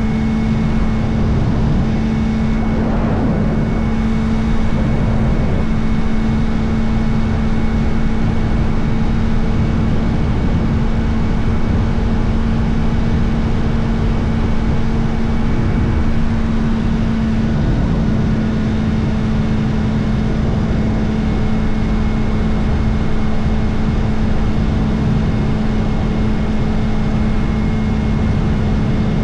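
Kawasaki Ninja ZX-4RR's 399 cc inline-four through an Arrow titanium slip-on exhaust with its dB killer fitted, running at steady revs while the motorcycle cruises, with wind rush underneath. The engine note holds one even pitch, with slight rises and falls in the first few seconds.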